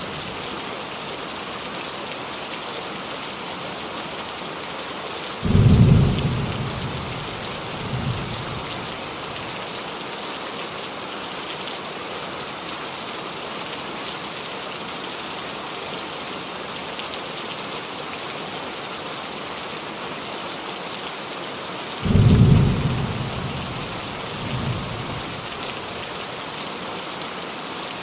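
Steady rain falling on a roof, with a low clap of thunder about five seconds in and another about 22 seconds in. Each rumbles away over a second or so, followed by a softer rumble a couple of seconds later.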